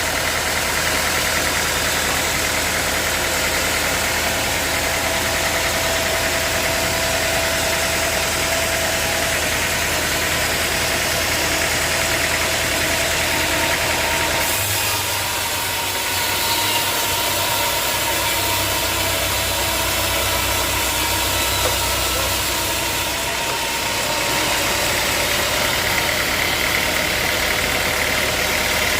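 Sawmill machinery running steadily: a motor hum under an even high hiss. The hum changes pitch about halfway through and changes again near the end.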